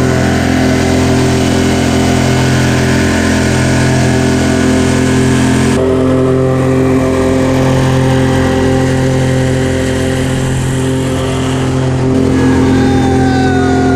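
Airboat's engine and propeller running loud and steady at speed, with a slight change in tone near the end.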